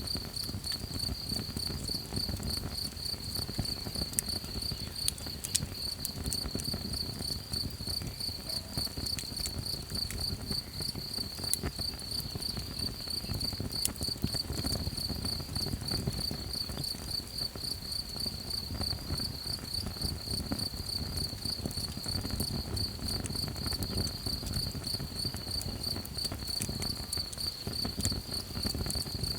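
Crickets chirping in a steady, evenly pulsing high trill over the low hiss of a small campfire, with a few sharp crackles from the fire.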